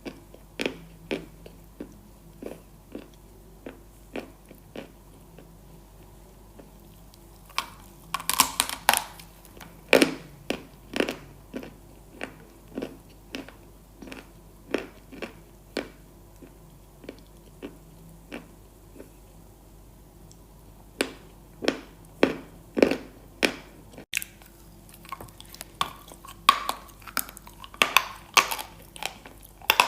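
Close-miked chewing of crunchy food: regular crunching chews about two a second, with louder bursts of crunching bites about a quarter of the way in, again around two-thirds of the way in, and near the end.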